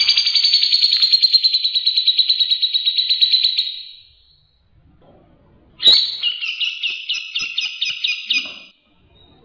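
A songbird singing two long, rapid rattling trills, the first about four seconds and the second about three, with a short pause between them. These are the fast 'tembakan' bursts prized in masteran song for training caged birds.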